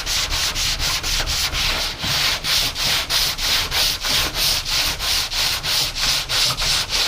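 Sandpaper on a sanding block worked back and forth by hand over body filler on a car body panel, a steady rasping hiss in about four strokes a second.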